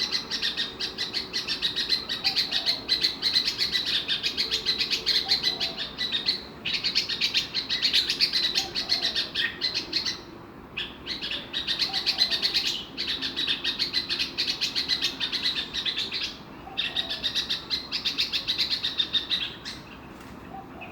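Small songbird chirping in fast, unbroken runs of high twittering, each run lasting a few seconds with short pauses between.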